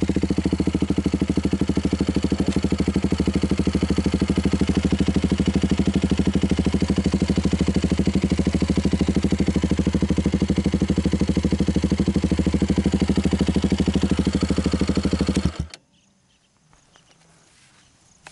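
KTM Duke 200's single-cylinder engine idling steadily through a homemade stainless-steel midpipe and a LeoVince Cobra aftermarket muffler, a meaty exhaust note. The engine is switched off near the end and cuts out suddenly.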